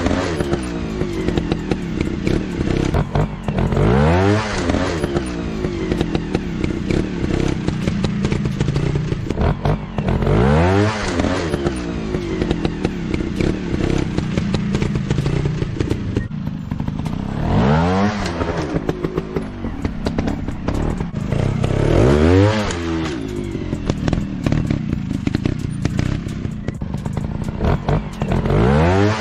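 Dirt bike engines running, revving up and back down about every five to seven seconds, with a steady engine drone and some clatter in between.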